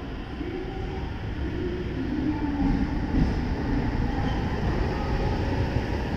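A 683 series limited express electric train pulling out of the station and rolling past at low speed. The rumble of its wheels and running gear slowly grows louder as it gathers speed.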